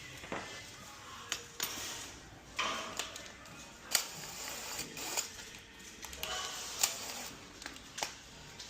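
Irregular metallic clinks, clicks and short scrapes of metal plumbing parts and tools being handled and set down, about a dozen sharp knocks spread unevenly.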